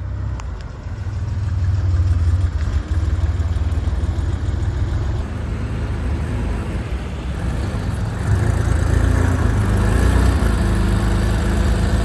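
Porsche sports car engine running with a deep, steady exhaust rumble, growing louder about two seconds in and again around eight seconds in.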